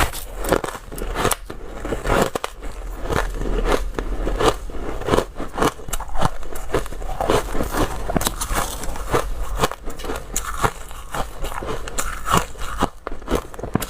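A person biting and chewing crunchy frozen ice close to the microphone, a continuous run of sharp crunches and crackles.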